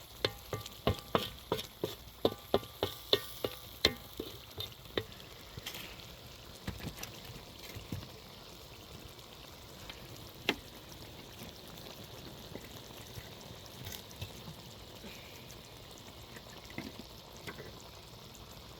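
Food frying in a pan while it is stirred, with a steady sizzle underneath. The stirring utensil knocks against the pan about three times a second for the first five seconds, then only now and then.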